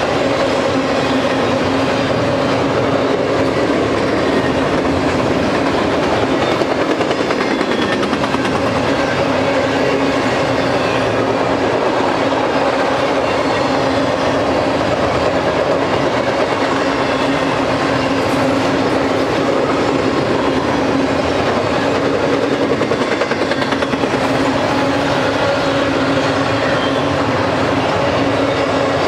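A double-stack container train's well cars rolling steadily past: a loud, continuous noise of wheels on rail with a steady droning tone running through it.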